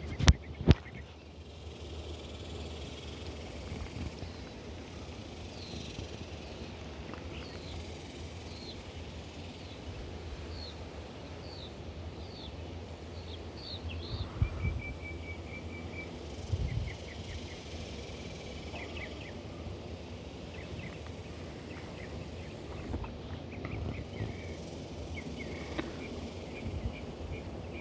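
Cicadas (locally called locusts) buzzing high in the trees, in waves of several seconds each with short breaks between them. Birds chirp short calls over the buzzing, with a quick run of notes about halfway through.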